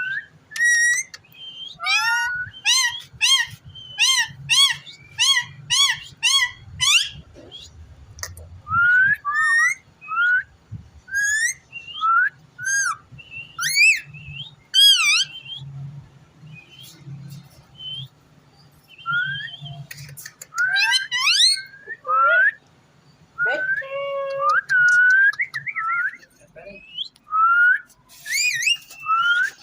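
Indian ringneck parakeet whistling: a quick run of about nine short rising whistle notes, about two a second, then scattered upward-sweeping whistles and chirps.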